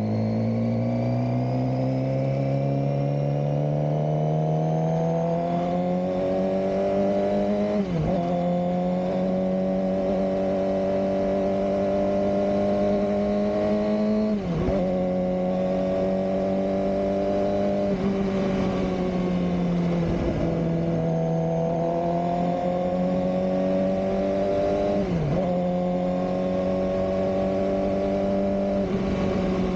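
Suzuki GSX-R600 K7 inline-four engine under way, its note climbing steadily over the first several seconds and then held at a steady pitch. Four times the pitch dips sharply and recovers within a moment, as with gear changes or throttle lifts.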